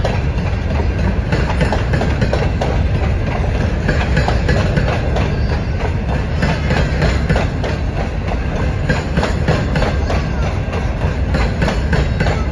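Alaska Railroad freight train of open-top hopper cars rolling past: a steady rumble of steel wheels on rail with continual clacking from the wheels and trucks.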